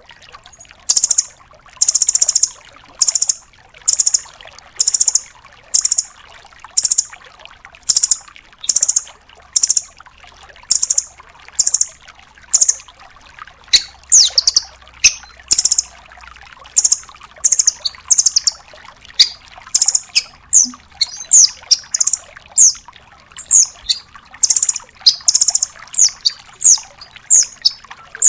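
Velvet-fronted nuthatch (red-billed 'rambatan') calling in a long run of short, sharp, high notes. The notes come about one a second at first, then turn quicker and more varied, with rapid downward-sweeping notes, from about halfway through.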